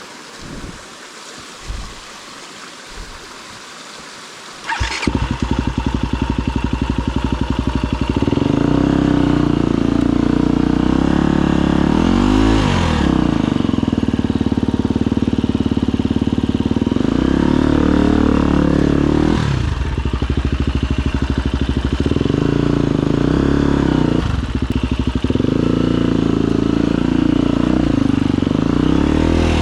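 Husqvarna FE250 enduro bike's single-cylinder four-stroke engine starting about five seconds in, then idling and running with several blips of the throttle.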